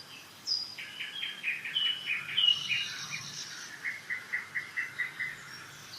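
Several songbirds singing in spring: high whistled notes near the start, a trilled, stepping phrase about a second in, then a run of short, evenly spaced notes, about three a second.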